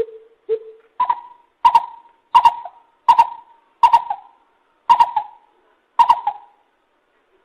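Lesser coucal calling: two low hooting notes, then a series of about seven higher, louder notes, each with a sharp start, spacing out slightly toward the end.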